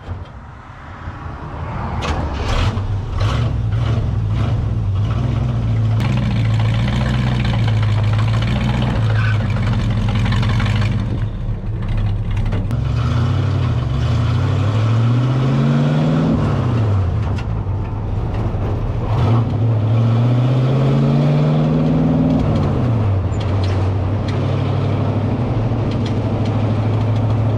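Small-block Chevy V8 of a vintage dirt-track modified race car running under way, heard from inside its stripped, roll-caged cabin. The engine picks up a second or two in. Twice its note climbs for a few seconds and then falls away as the car accelerates and lets off.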